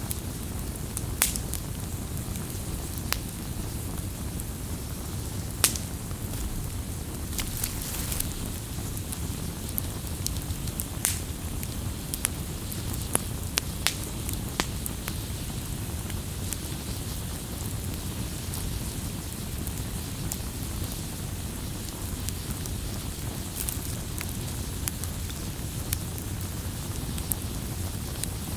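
Wood fire burning: a steady low rumble of flames with irregular sharp crackles and pops, a few of them louder.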